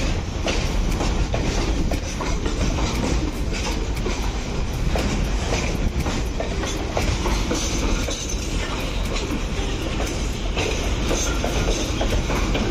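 Pakistan Railways train running along the track: a steady, heavy rumble with frequent sharp clicks of the wheels over rail joints.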